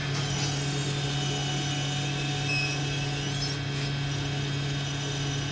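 Hot air rework station blowing steadily with a constant hum while a phone IC is reflowed onto the board.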